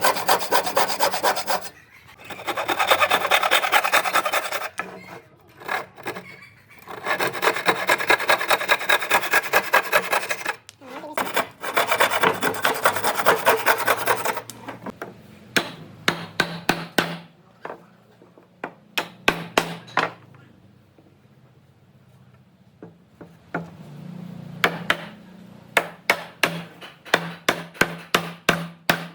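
A hand tool rubbing on wood in rapid back-and-forth strokes, in long runs broken by short pauses. About halfway through this gives way to sharp taps in quick clusters.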